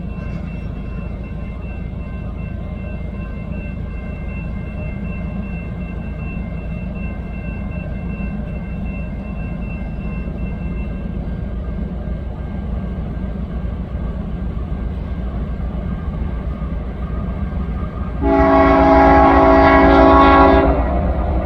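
Steady low rumble of an approaching train, slowly getting louder. Near the end comes one loud blast of about two seconds from Union Pacific 7050's Nathan K3HL air horn, a chord of several notes, sounded for the grade crossing.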